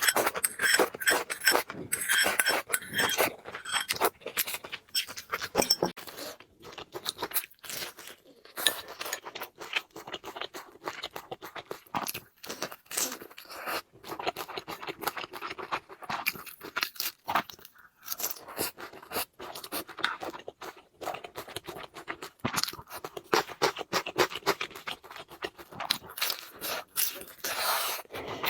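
Close-miked eating: crunchy chewing and wet mouth sounds in quick, irregular clicks.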